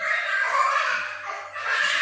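Poksay hongkong, a laughingthrush, singing a varied run of rough, chattering notes mixed with whistled glides.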